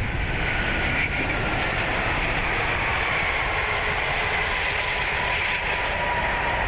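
Airbus A380 cockpit during touchdown and landing roll: a steady rumble from the wheels on the runway and rushing air, with a faint steady whine.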